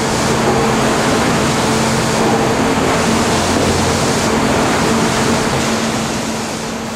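Sawmill machinery running: a loud, steady rush of mechanical noise over a low electrical-motor hum, easing off near the end.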